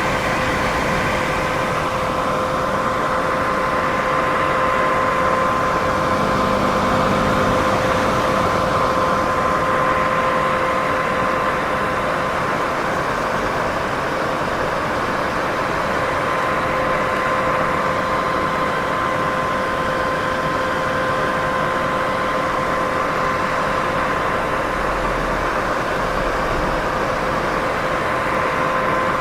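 Steady white noise: an even, unbroken hiss with a faint steady hum running through it.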